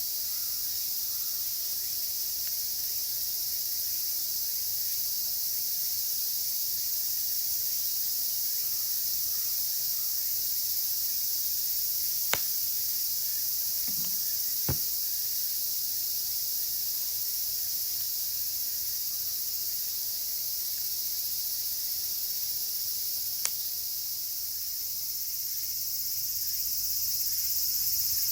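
A steady, dense high-pitched chorus of cicadas. A wood campfire gives three sharp single pops, about midway and again near the end.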